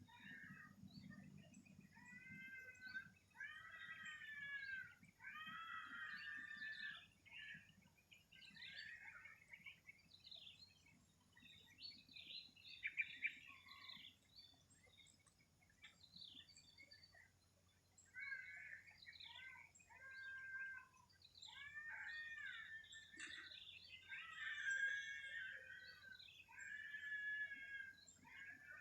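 Songbirds singing: repeated phrases of arched, warbling chirps that come in groups with short pauses between them, over a faint steady high-pitched hiss.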